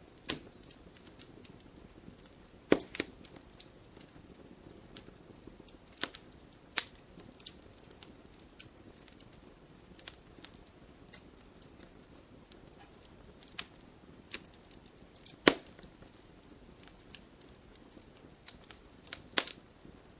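Wood fire crackling: irregular sharp pops and snaps, a few much louder than the rest, over a low steady hiss.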